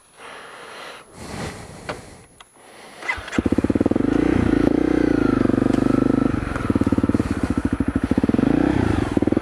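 Dual-sport motorcycle's single-cylinder engine starting about a third of the way in and then idling, its pitch lifting and settling once soon after it catches. Before it starts there are only a few faint knocks and rustles.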